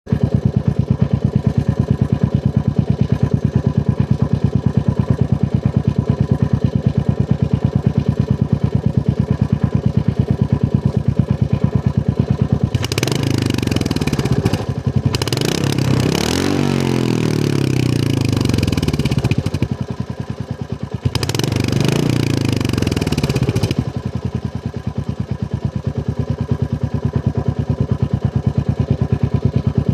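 Royal Enfield Hunter 350's single-cylinder engine idling through its stock exhaust with an even pulse. It is revved twice near the middle, each time rising and falling back before returning to idle.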